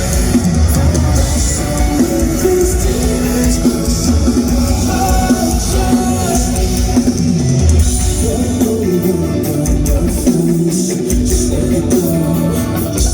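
Rock band playing live: electric guitars and drum kit in a loud, steady full-band passage of a song.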